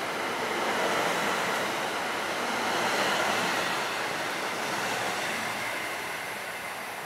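NJ Transit commuter train of multilevel coaches rolling past as it departs, a steady rush of wheels and air that slowly fades as the last car pulls away near the end.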